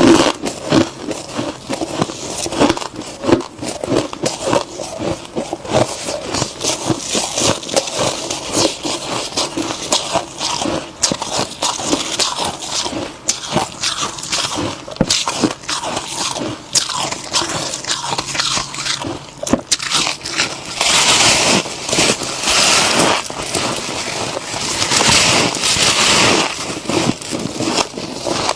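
Close-up crunching and chewing of humidifier-grown freezer frost: a dense run of crisp crackling bites. Near the end come a couple of longer, hissier stretches of crunching.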